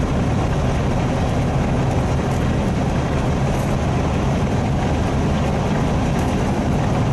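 Steady drone of a semi truck's diesel engine and road noise heard inside the cab while cruising at highway speed, even throughout with no sudden sounds.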